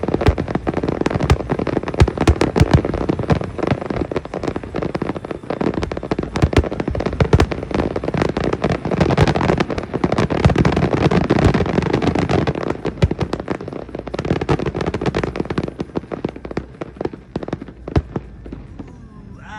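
Fireworks display: a dense, rapid barrage of bangs and crackles, thinning out over the last few seconds.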